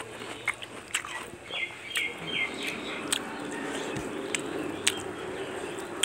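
A person chewing and smacking through a mouthful of chicken curry, with scattered sharp, wet mouth clicks.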